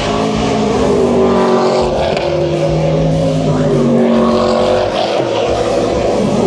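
Trans Am race cars' V8 engines running hard on track, the engine note sliding and stepping in pitch as cars pass and shift.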